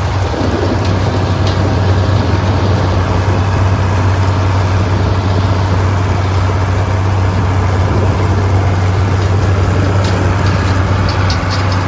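Tractor engine running steadily: a loud low drone with dense mechanical noise over it.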